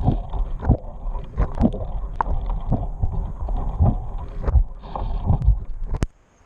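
Irregular knocks and slaps of water against a small boat's hull, with wind on the microphone. It ends in a sharp click about six seconds in, then drops away abruptly.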